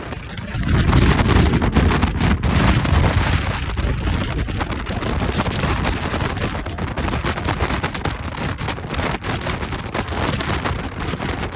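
Strong wind buffeting the microphone: a loud low rumble that swells about a second in, with crackling gusts.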